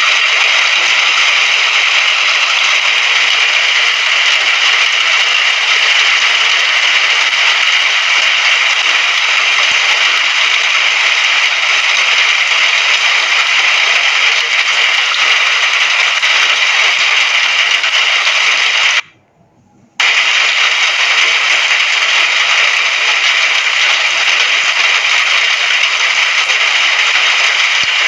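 Steady rain, a dense even hiss with a fine crackle. It cuts out almost to silence for about a second, about two-thirds of the way through, then resumes unchanged.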